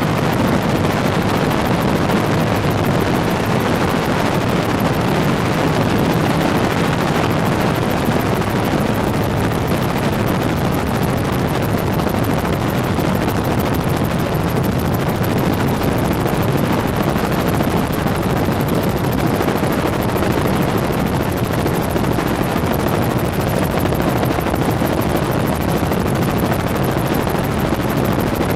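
Steady, loud engine and rotor noise of a helicopter, heard from on board.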